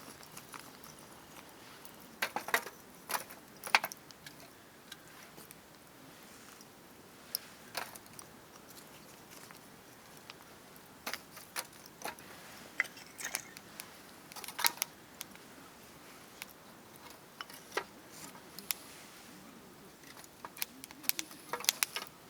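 Wood campfire crackling: irregular sharp pops and snaps, some in quick clusters, over a faint steady hiss.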